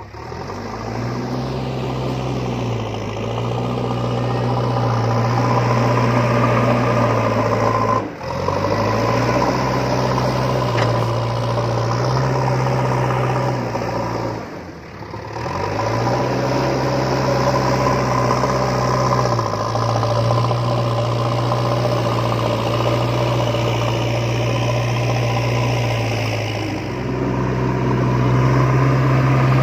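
An engine running steadily at idle, its low hum shifting slightly in pitch now and then, with two brief dips about 8 and 15 seconds in.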